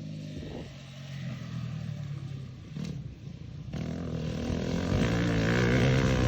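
Dirt bike engine running, getting louder through the second half.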